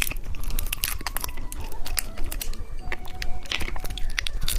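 Candy packaging being torn open and crinkled by hand, a rapid irregular run of sharp crackles and rustles.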